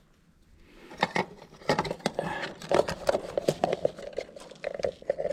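Small hardware being handled: a motion light's metal base plate and its mounting screw clicking and tapping as they are positioned and fitted. The irregular run of light clicks starts about a second in.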